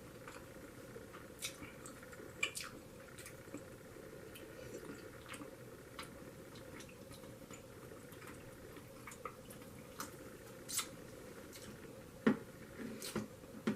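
Close-miked wet mouth sounds of eating: scattered soft clicks, smacks and squishes of chewing, with a cluster of louder smacks near the end.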